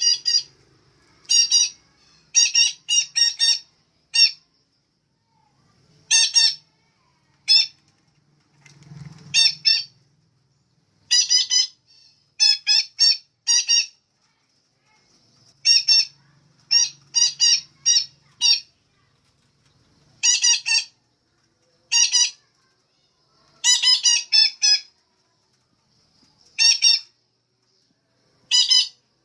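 Female betet parakeet giving short, harsh, squawking calls, some singly and some in quick runs of two to four, every second or two.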